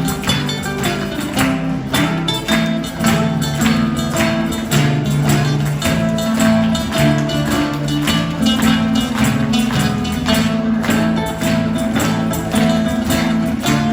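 Folk music played on acoustic guitar: chords strummed in a steady rhythm over moving bass notes.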